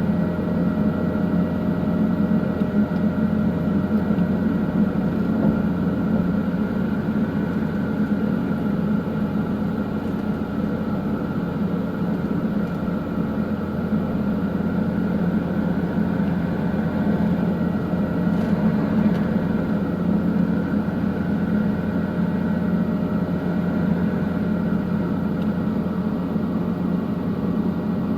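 Helicopter engine and rotor noise heard from inside the cabin: a loud, steady, unchanging drone.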